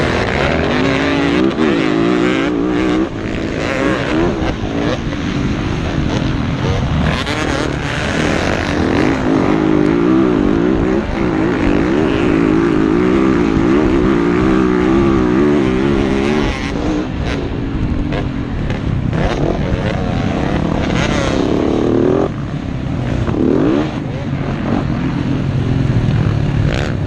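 Motocross bike engines racing, the pitch rising and falling again and again as riders work the throttle through the track.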